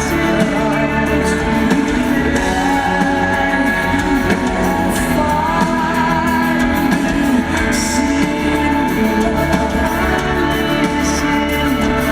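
A rock band playing live with a singer's vocals, amplified in an arena and recorded from the audience.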